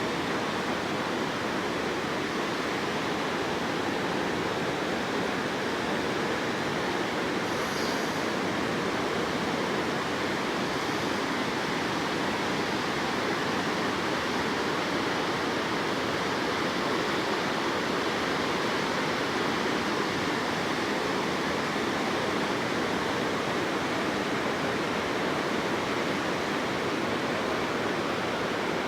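Waterfall: a large volume of water rushing steadily.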